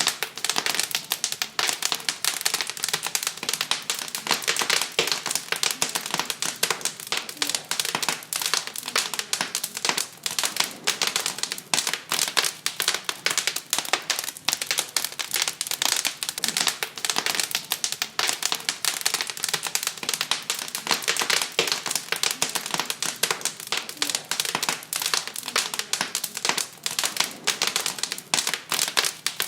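Wood fire crackling in a fireplace: a dense, unbroken run of sharp pops and snaps over a soft hiss.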